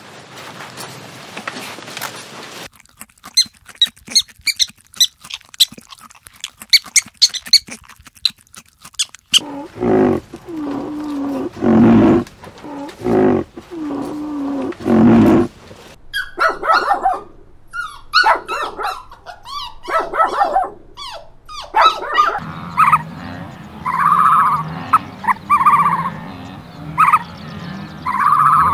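A succession of different animal sounds: rapid clicking with high chirps, then a run of about six loud pitched calls, then more clicking, then a series of shorter, higher calls near the end.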